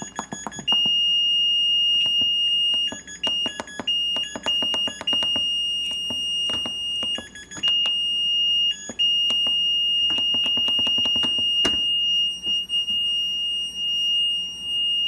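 Maytag Neptune washer's control panel beeper sounding a steady, high-pitched beep, held for seconds at a time and broken by short gaps, with several bursts of rapid clicking. The constant beeping is the sign of a faulty control panel that won't respond, as the owner believes.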